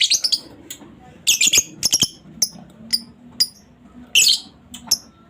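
Female lovebird chattering: sharp, high-pitched chirps in quick clustered runs of several notes, with single chirps between them.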